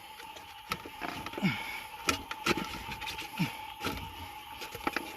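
Scattered sharp clicks and knocks of metal tools handling a hook in an alligator gar's mouth, with a few short falling squeaks.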